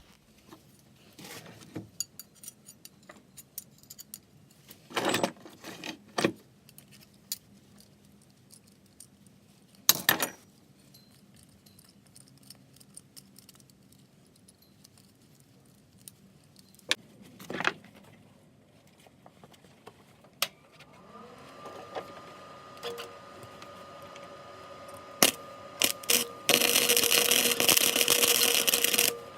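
Scattered metallic clinks and knocks, then a steady hum comes on about two-thirds of the way through. Near the end an arc weld crackles and hisses loudly for about three seconds before cutting off.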